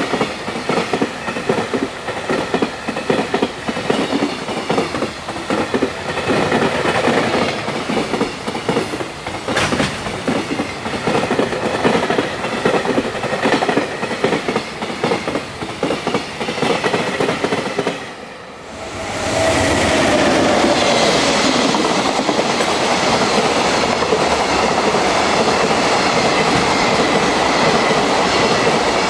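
Freight trains passing through a station at speed: container wagons rattling and clattering over the rail joints. About eighteen seconds in, the sound drops away briefly, and then a second freight train runs past, hauled by an EF200 electric locomotive, with a steadier, louder rush and a faint falling whine.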